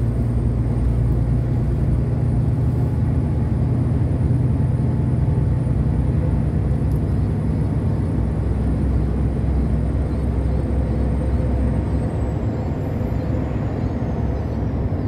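Long-haul truck heard from inside the cab while climbing an overpass: a steady engine drone with road noise. A faint high whine runs throughout and sinks a little about twelve seconds in.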